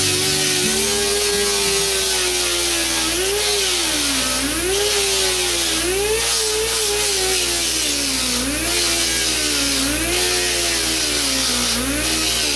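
Pneumatic grinder working metal: a loud rush of air with a high whine that keeps dropping in pitch and recovering every second or so as the grinder slows under load against the corners and spins back up. The grinder is fed by a small compressor that the owner says doesn't have a lot of volume.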